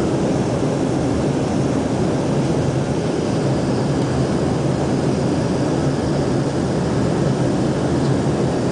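Aircraft engine and airflow noise heard from inside the cabin in flight: a loud, steady low rumble with a faint hum, unchanging throughout.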